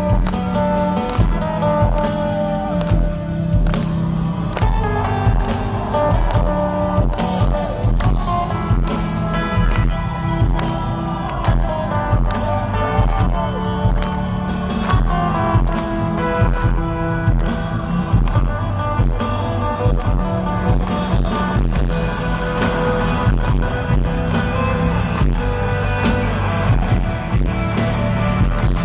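Live rock band playing an instrumental passage: a lead guitar line that bends in pitch over bass and a steady drum beat.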